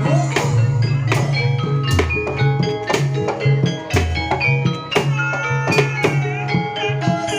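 Jaranan-style percussion ensemble music: drums beating a steady rhythm under ringing metallophone tones, with two deep drum strokes, about two seconds in and again about four seconds in.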